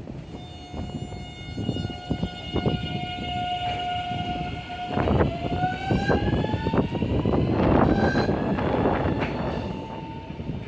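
Electric commuter train's traction equipment whining, a steady tone that begins to rise slowly in pitch about halfway through as the train picks up speed, over the clatter of its wheels on the rails.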